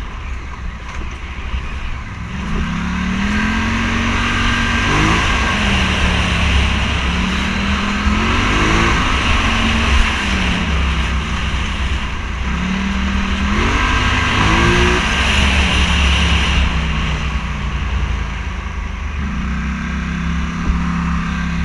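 Scrambler motorcycle engine under way, revving up and easing off several times as the throttle is opened and closed, with heavy wind rumble on the microphone.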